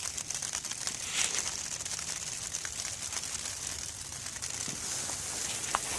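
Light rain pattering on a plastic tarp overhead: a steady, fine ticking hiss.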